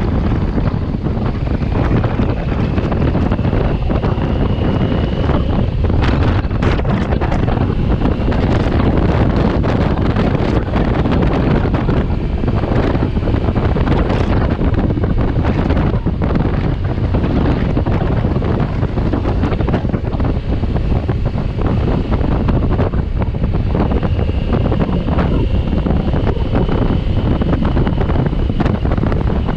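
Heavy wind buffeting on the microphone of a motorcycle ridden at speed: a loud, steady rush with sharper gusts through the middle. A faint high whine rises slightly twice, once near the start and once near the end.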